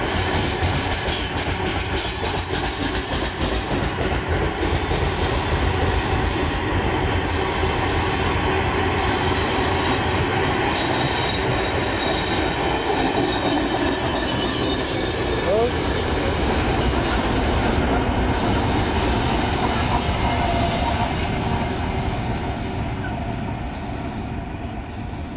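Freight train rolling past close by on steel wheels: a steady, loud rumble of wheels on rail with faint high squeals, easing off over the last few seconds.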